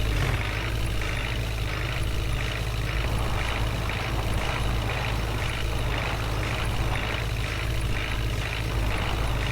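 Tractor engine running steadily under way, a continuous low drone with a noisy mechanical clatter above it.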